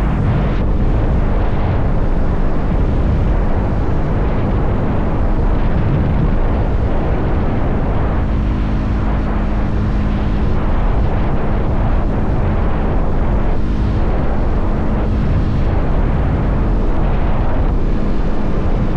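Motorcycle engine running at a steady cruising speed, under heavy wind rumble on the microphone.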